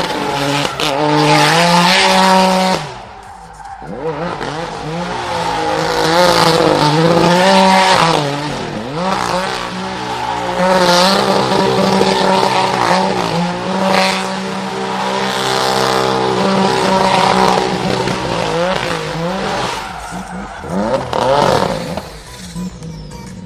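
Drift car engine revving hard, its pitch climbing and dropping again and again as the throttle is worked, over screeching tyres sliding through a drift. The sound dips briefly about three seconds in, then the revving and tyre squeal carry on.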